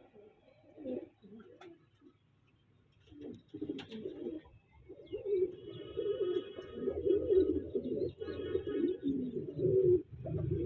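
Pigeons cooing, low and wavering, louder from about five seconds in. A thinner, higher-pitched sound runs over the cooing for a few seconds in the second half.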